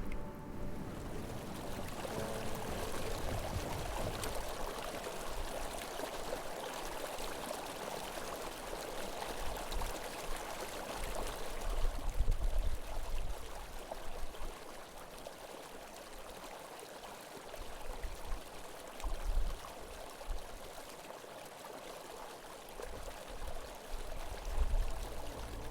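Strong wind rushing and gusting, buffeting the microphone with deep thumps, loudest about halfway through.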